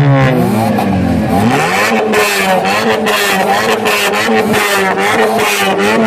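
Modified car's engine and exhaust: the revs fall over the first second and a half, then it runs at a fairly steady pitch that rises and dips a little, with a rough, crackly edge.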